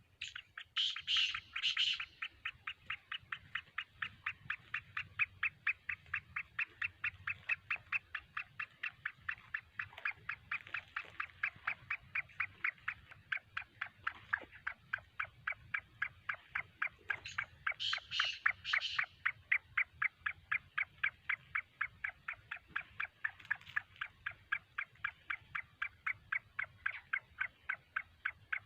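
Black francolin calling: two loud, harsh three-note phrases, one near the start and one about two-thirds of the way through, over a steady run of short, sharp notes repeated about three times a second.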